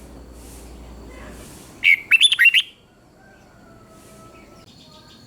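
Red-whiskered bulbul singing one short, loud phrase of several quick warbling notes about two seconds in, with a quieter background before and after.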